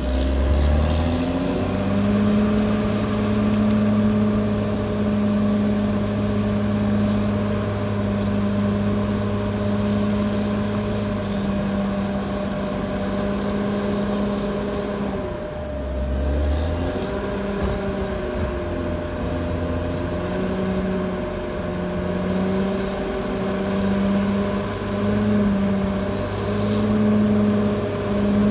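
Caterpillar D6R XL bulldozer's diesel engine working: the revs rise over the first couple of seconds, hold steady, drop briefly about halfway through, then climb again and swell up and down in short pulses near the end. A steady whine sits above the engine note throughout.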